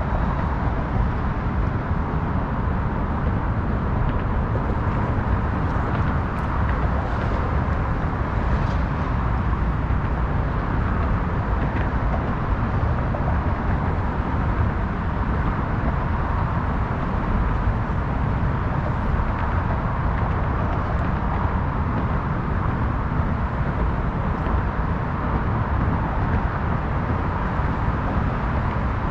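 Steady outdoor city ambience: a continuous, even roar of road traffic, heaviest in the low end, with no single vehicle standing out.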